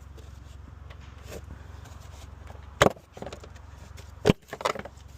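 Plastic engine cover being pulled off its mounts: two sharp pops about a second and a half apart, each followed by a light plastic clatter, over a steady low hum.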